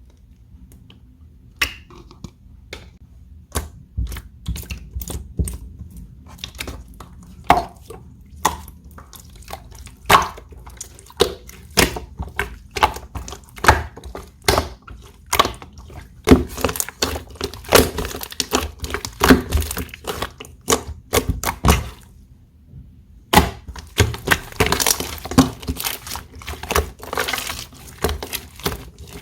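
Slime being squished and worked by hand, making irregular sticky clicks and pops. They start sparse, become dense and rapid from about halfway, and break off briefly near the end before going on.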